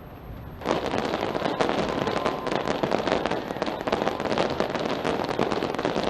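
Fireworks display going off in a dense, continuous crackle of many overlapping bangs, starting abruptly about half a second in.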